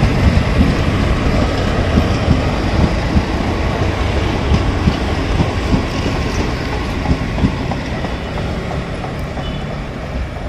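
Passenger train coaches rolling past at speed, their wheels clattering on the track, the sound slowly fading as the last coaches go by.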